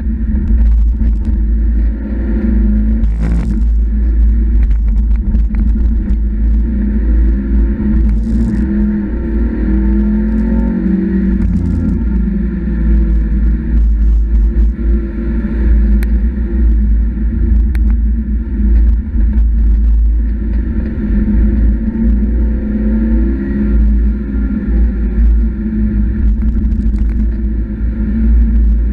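Mazda MX-5 NB's four-cylinder engine pulling hard on a lap, pitch rising and falling through gear changes and corners, over a heavy low rumble, with a few short bursts of hiss.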